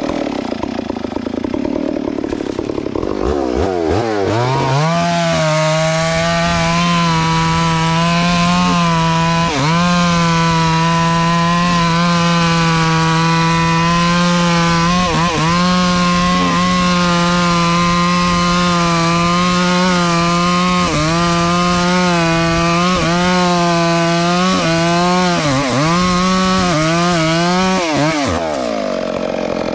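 Two-stroke chainsaw idling, then revving up about three seconds in and running at a steady high pitch while cutting through a log. The pitch dips briefly several times, and the saw drops back to idle near the end.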